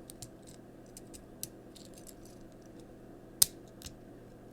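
Light plastic clicks and taps of a small Transformers action figure being handled and transformed, with one sharp click about three and a half seconds in.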